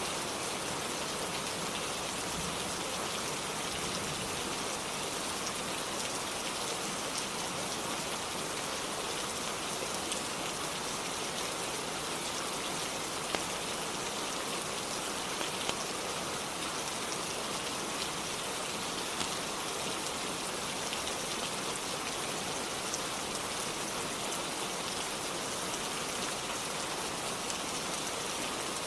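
Steady rain falling on a roof, an even hiss with a few sharp ticks from single drops scattered through it.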